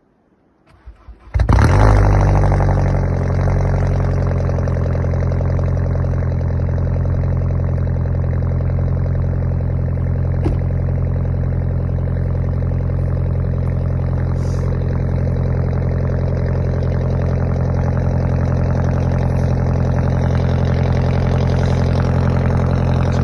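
Volkswagen Polo engine cranking briefly, catching about a second and a half in with a short flare of revs, then settling into a steady idle.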